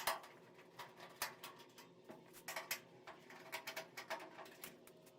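Faint, irregular light clicks and taps of a hand tool loosening the screws that hold on a dryer's front door panel.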